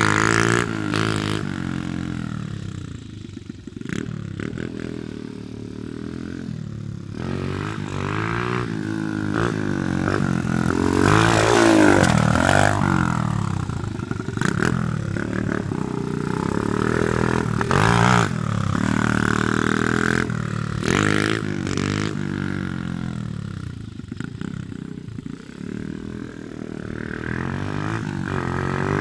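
Pit bike engine revving up and falling back again and again as it is ridden, rising and dropping in pitch, with occasional knocks and clatter.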